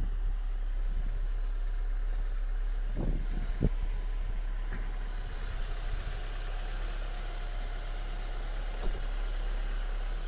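Vauxhall Cavalier MK2's S16SH 1.6-litre four-cylinder petrol engine idling steadily, fully warmed up, on a freshly rebuilt distributor. It is running smoothly, with a couple of short knocks about three seconds in.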